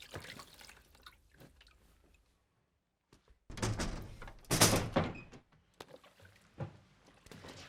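Scattered soft knocks, then after a short silence a noisy thud with rustling, loudest about four and a half seconds in.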